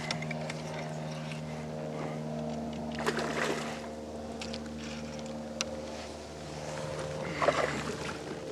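A hooked bass thrashing and splashing at the water's surface twice while it is fought on the line, over a steady low mechanical hum.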